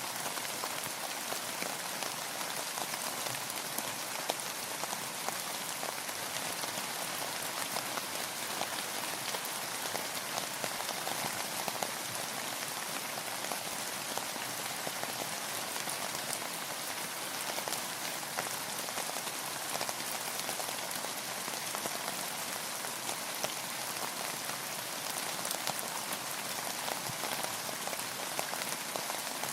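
Steady rainfall, a dense even patter of many small drops on a surface with no thunder or breaks.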